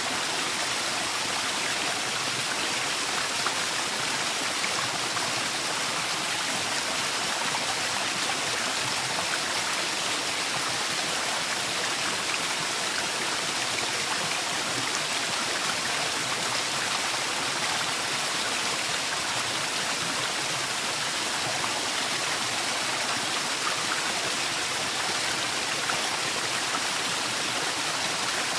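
Waterfall in a forest: a steady, unbroken rush of falling water, mostly hiss with little low rumble.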